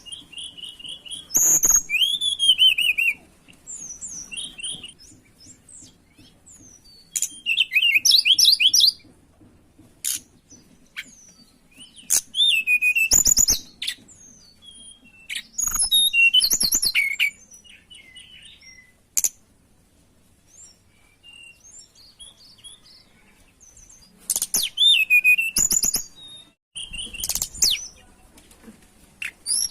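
Tledekan gunung singing in short bursts of high, sliding whistled and warbling phrases every few seconds, separated by quiet gaps, with a few sharp clicks among them.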